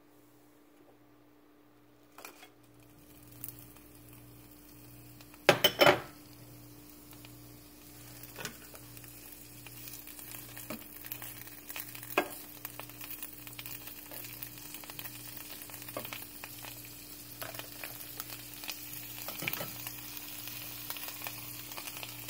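Avocado oil heating in a nonstick frying pan begins to sizzle a couple of seconds in. About five and a half seconds in, fresh spinach leaves go into the hot oil with a brief loud burst of sizzling and clatter. The pan then keeps sizzling and crackling, louder toward the end, over a low steady hum.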